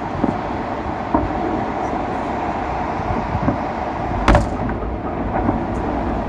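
Fireworks salute going off: a string of sharp bangs, the loudest about four seconds in, over a steady rushing background noise.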